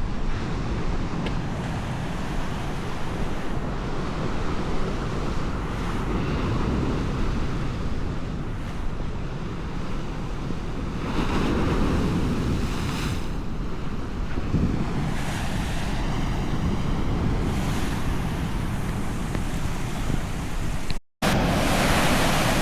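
Atlantic Ocean waves breaking and washing ashore in a steady roar, with wind buffeting the microphone. The surf swells louder twice, about eleven and fifteen seconds in, and the sound cuts out for an instant near the end.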